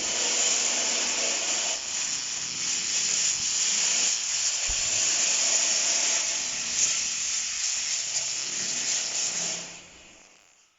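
A long, steady hiss of gas jetting out under pressure, fading away over the last second and then stopping.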